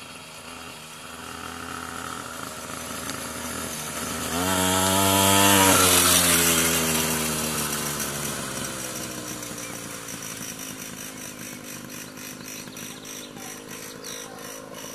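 Minibike's small engine running at high revs as it approaches and passes close about five seconds in, its pitch dropping as it moves away and fades.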